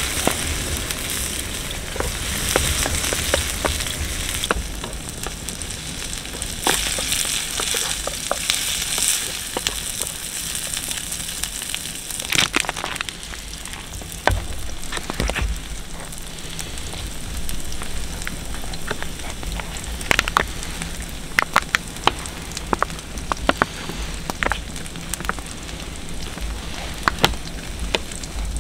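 Fire crackling and sizzling: irregular sharp pops over a steady hiss, the pops coming thicker in the second half.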